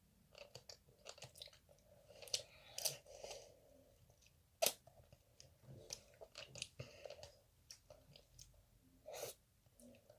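Chewing on candied tangerine tanghulu: the hard sugar coating cracks and crunches in irregular bites, with one sharper crack about halfway through.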